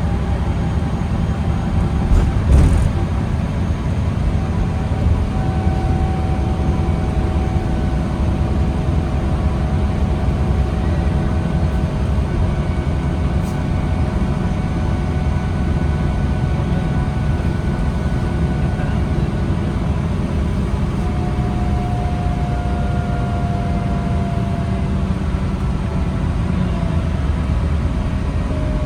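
2009 New Flyer D40LFR diesel transit bus rolling slowly, heard from inside: a steady engine and road rumble with faint whining tones that slowly rise and fall as the speed changes. There is a single knock about two and a half seconds in.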